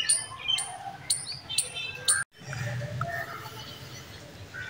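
Birds chirping: a series of short, high calls, a few a second. They cut off abruptly a little over two seconds in, leaving only faint outdoor background.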